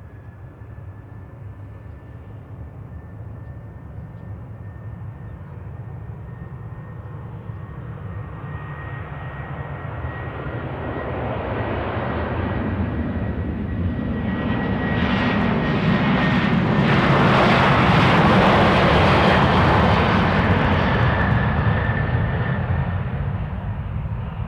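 Boeing 737-800's CFM56 turbofan engines at takeoff power as the jet takes off and passes: a jet roar that builds over about fifteen seconds with a steady high fan whine, peaks near the end, then begins to fade.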